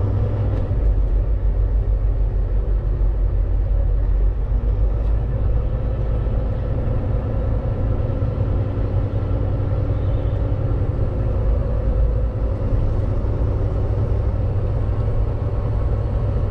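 Volvo VNL 860 semi truck driving, its engine and road noise a steady low drone.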